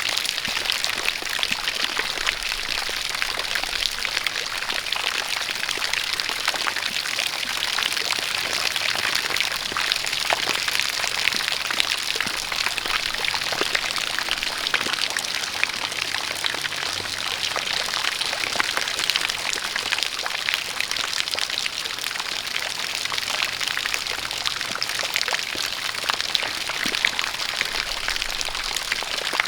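Steady rain falling together with a spout of water pouring, a constant hiss scattered with many small drop ticks.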